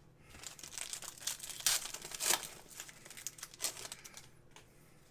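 A foil trading card pack wrapper crinkling and tearing as it is handled and opened. There are irregular crackles for about four seconds, then they die away near the end.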